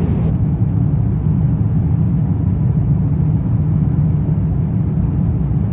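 Steady low rumble of an Airbus A350-900 airliner cabin during descent, with airflow and Rolls-Royce Trent XWB engine noise heard from inside the cabin.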